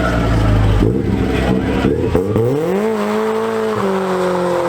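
Car engine revving: it runs at a steady lower speed, climbs sharply about two seconds in, then is held at high revs.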